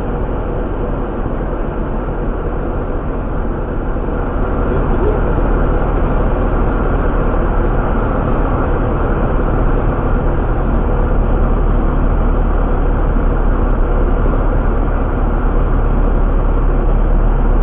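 Piper Warrior single-engine light aircraft heard from inside the cabin: a steady drone of engine, propeller and airflow, growing a little louder about four to six seconds in.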